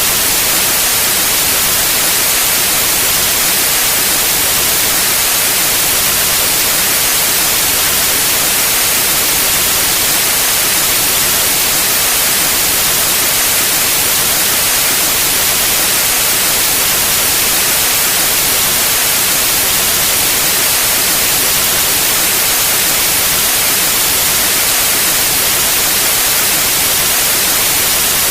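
Pure white noise: a steady, unchanging hiss spread evenly across the whole range, brightest in the treble.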